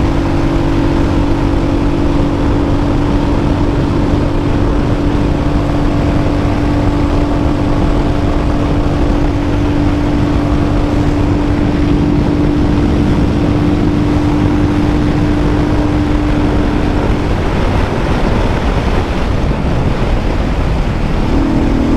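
Royal Enfield Hunter 350's single-cylinder engine running steadily at high revs in fifth gear during a top-speed run, with heavy wind rush on the microphone. The engine's steady hum drops under the wind about three-quarters of the way through and comes back near the end.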